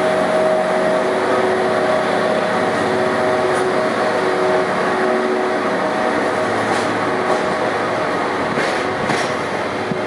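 A JR EF81 electric locomotive pulls a train of 24-series sleeper coaches away from the platform. The locomotive's steady hum fades about halfway through as the coaches roll past with a dense wheel rumble, and a few sharp wheel clicks over the rail joints come near the end.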